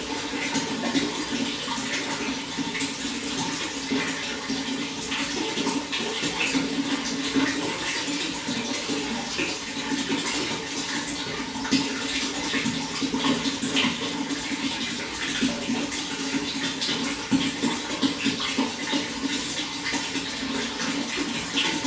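Running water flowing steadily: a continuous rushing splash with many small splashes and drips throughout.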